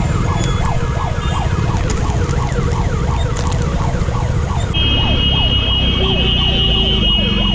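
Ambulance siren wailing in fast, repeated rising-and-falling sweeps over a steady low rumble. A steady high-pitched tone joins it about five seconds in and holds nearly to the end.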